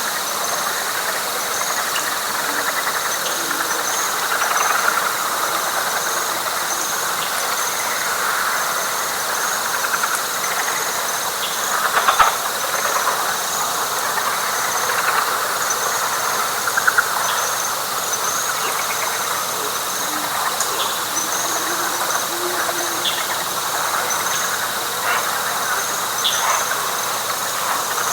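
Night chorus of frogs and insects: a dense, steady trilling mass of calls, with rapid high chirps repeating above it and a thin steady whine.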